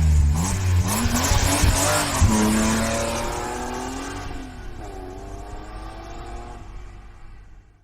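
Toyota Tundra with long-tube headers, X-pipe and Dynomax VT flapper mufflers accelerating hard, the exhaust note rising in pitch. The exhaust then fades away over several seconds and cuts off suddenly at the end.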